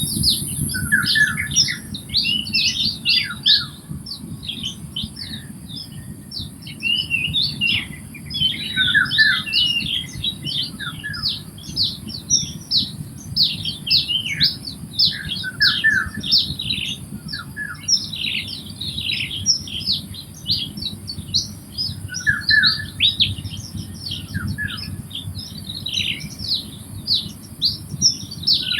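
A chorus of wetland birds calling at once: a dense chatter of quick, high chirps and squawks, with a lower short call coming back every few seconds. A steady high hiss and a low rumble run underneath.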